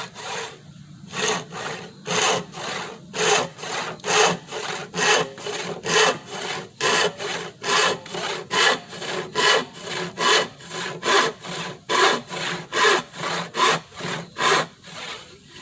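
Hand saw cutting through a wooden board in steady, full strokes, about two a second, the cutting stroke louder than the return. The sawing stops near the end.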